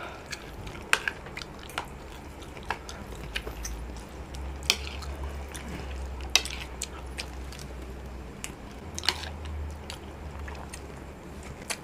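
Close-up mouth sounds of chewing and wet squishing while eating durian pengat, soft durian flesh in coconut-milk sauce, with scattered sharp clicks of a metal fork and spoon against the ceramic plate.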